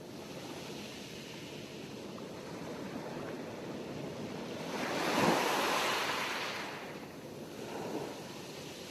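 Sea waves breaking on a shore: a steady wash of surf, with one wave building to a loud break about five seconds in and draining away, and a smaller wave near the end.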